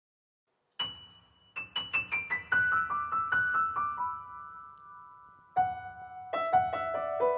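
Solo piano introduction: a single high note, then a falling run of notes that settles and rings. After a short pause, a second phrase begins lower down.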